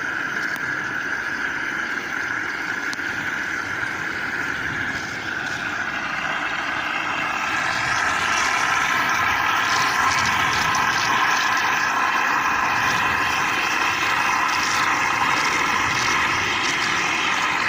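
A steady engine drone with a whining edge, growing louder about seven seconds in and then holding steady.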